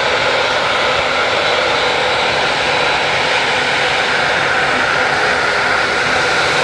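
Airbus A380's jet engines running: a loud, steady rushing noise with no change in pitch or level.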